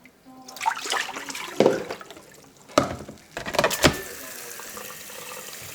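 Water running from a tap into a sink, with several knocks and clatters as things are handled.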